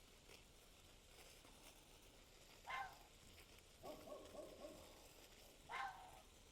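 Near silence broken by a few short bird calls: two quick calls that slide down in pitch, about three seconds apart, with a brief warbling call between them.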